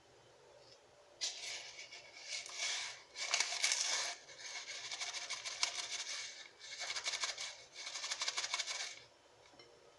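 Paper or plastic packets rustling and crinkling in hand in several bursts while baking powder and cocoa powder are opened and measured out.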